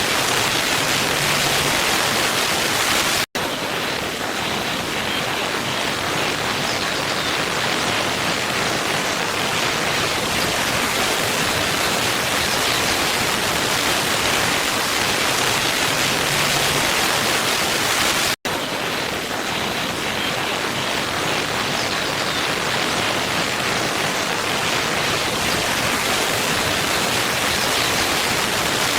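Waterfall ambience: a steady, dense rush of falling water. It drops out for an instant twice, about three seconds in and about eighteen seconds in, where the recorded track loops.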